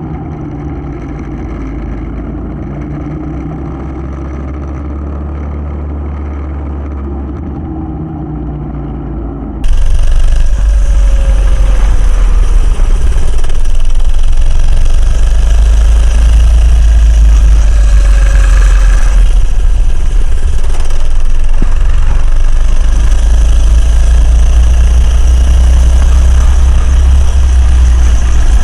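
Coleman CC100X minibike's small single-cylinder four-stroke engine running. About ten seconds in, the sound cuts to a much louder recording of the engine being ridden, its pitch rising and falling under heavy wind rumble on the microphone.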